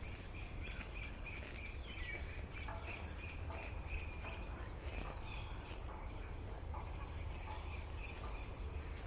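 A bird chirping in a quick, even run of short high notes that thins out about seven seconds in, over a constant low rumble.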